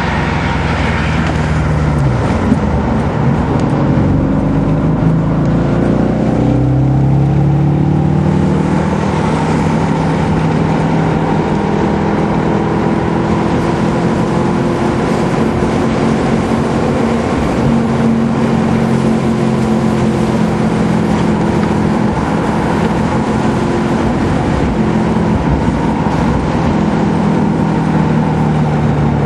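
Road car's engine heard from inside the cabin while lapping a race circuit. The note drops about two seconds in, climbs over the next few seconds as the car accelerates, then holds at a fairly steady high pitch over road and wind noise.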